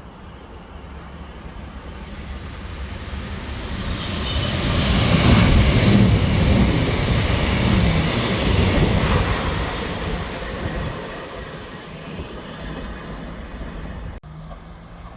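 A train passing at speed: its rumble and rushing noise build for about five seconds, stay loudest for a few seconds in the middle, then fade away.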